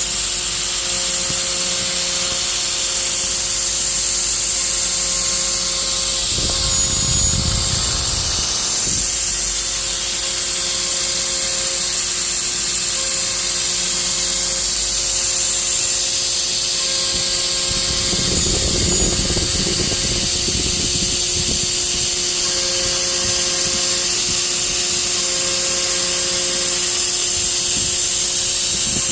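CNC router spindle running with a steady high whine while its bit cuts wood. Rougher cutting noise swells about six seconds in and again around eighteen seconds.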